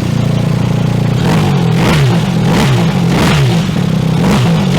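BMW R 1300 GS Adventure's boxer-twin engine, breathing through a Jekill & Hyde Nomad S valved stainless exhaust, idling, then revved in a quick series of throttle blips, about one every half second, starting about a second in.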